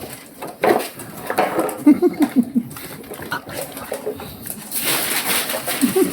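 Pug puppies play-fighting: short growls and grunts, with a quick run of growl pulses about two seconds in and again near the end, amid scattered clicks and a stretch of breathy noise.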